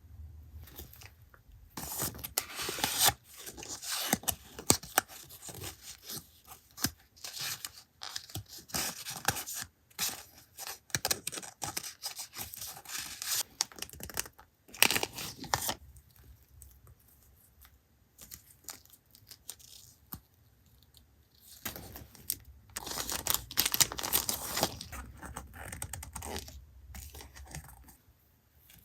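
Paper being handled and torn by hand, with rustling, crinkling and small taps. There are two longer stretches of tearing or rubbing, one a couple of seconds in and one near the end.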